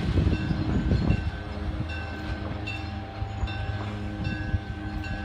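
Train hauled by a GE U25B diesel locomotive rolling away: the wheels clack over rail joints through the first second or so, then a lower, steady rumble as it recedes.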